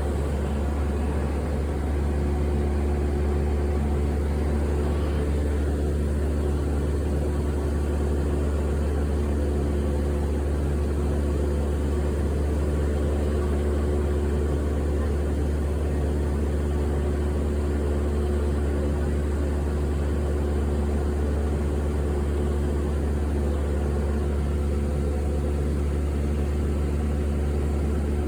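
Steady, unchanging drone of an airliner cabin in flight: deep engine and airflow noise with a few steady hum tones.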